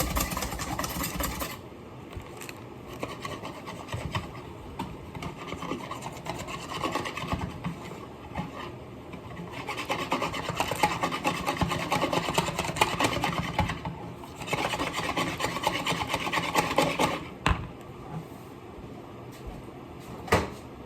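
Scratchy rubbing and rasping in stretches of a few seconds each, with a couple of sharp knocks near the end.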